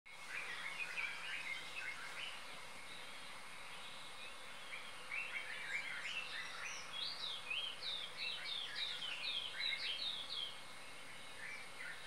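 Birds twittering in quick runs of short chirping notes, with a lull of a couple of seconds early on and busier chirping through the middle.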